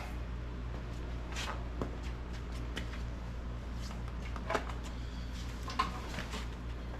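An old sandblaster tank lying on its back, with a few scattered scrapes and clicks as loose debris inside shifts and crunches, over a steady low hum.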